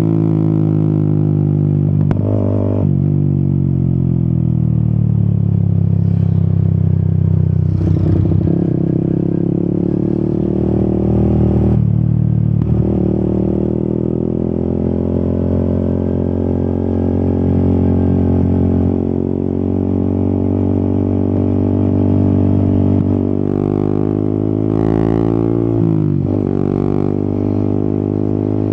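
Yamaha XSR 155's single-cylinder engine under way, its pitch rising and falling with the throttle. The note breaks briefly about four times, as at gear changes or throttle lifts.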